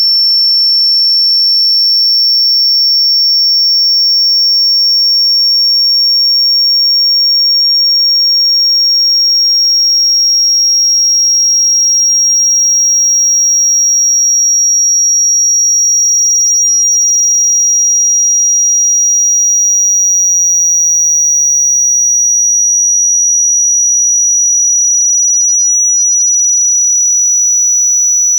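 Electronically generated sine-wave tone for ejecting water and dust from a phone speaker: a single loud, high-pitched pure tone, rising very slowly in pitch.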